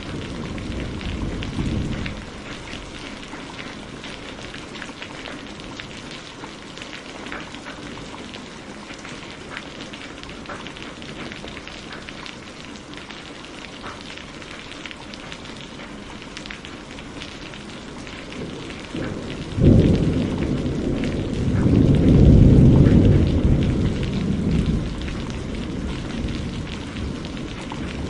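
Steady rain falling, with a patter of individual drops. A low thunder rumble fades out in the first two seconds, and about two-thirds of the way through a sudden thunderclap breaks in and rolls on for about five seconds before dying away.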